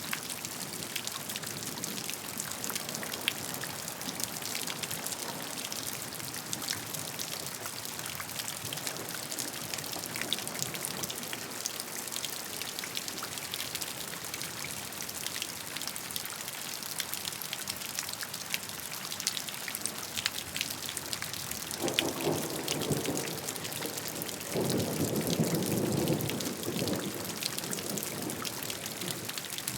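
Steady rain, an even hiss dotted with the sharp ticks of single drops striking. About 22 seconds in, and again for a couple of seconds shortly after, a louder low rumble rises under the rain.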